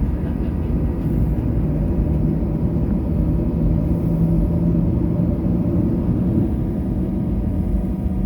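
Steady cabin rumble inside a Boeing 737-800 rolling on the ground just after landing, engines running. A low hum in the rumble rises slightly in pitch about a second and a half in, then holds.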